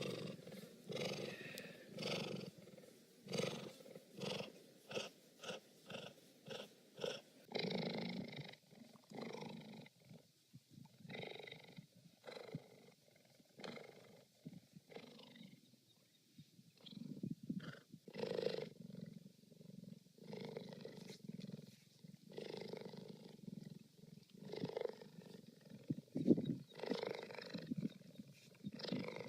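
Cheetah purring, a pulsing purr that swells and fades with each breath, at roughly two pulses a second at first and more unevenly later on.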